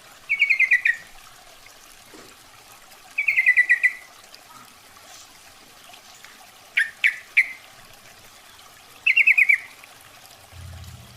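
Yellow-vented bulbul (trucukan) calling: four short bursts of quick chattering notes, about three seconds apart. This is the female's call, used as a lure to attract males.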